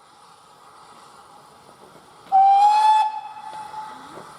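Steam locomotive whistle giving one short, loud blast a little over two seconds in, its pitch rising slightly, then trailing off over a steady hiss of steam.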